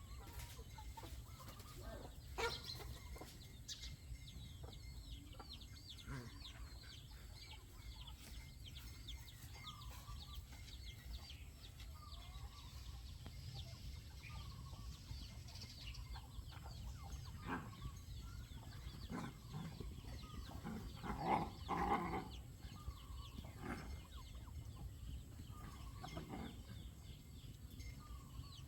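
Faint outdoor ambience: a steady low rumble with many small high chirps, and a few louder animal calls, the loudest about two-thirds of the way through.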